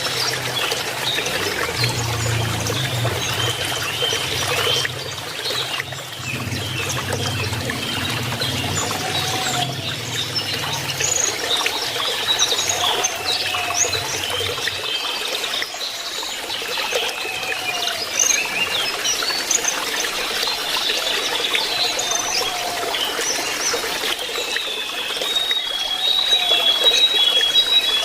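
Lesser shortwing song, rapid chirping and curving twittered notes, over the constant trickle of running water. A low hum sits under the first half, and near the end comes a run of even, high whistled notes.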